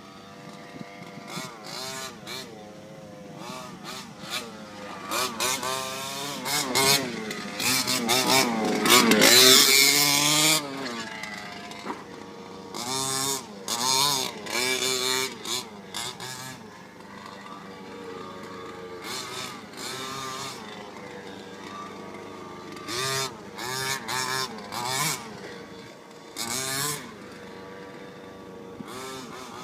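Radio-controlled trophy truck's motor revving up and easing off in repeated bursts while driven, running steadily in between, loudest about nine to ten seconds in.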